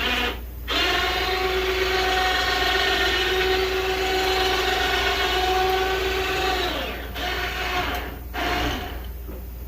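Electric ATV winch motor running under load, a steady whine that cuts out briefly just after it starts and then runs for about six seconds. It slows and stops, then comes in two short bursts near the end.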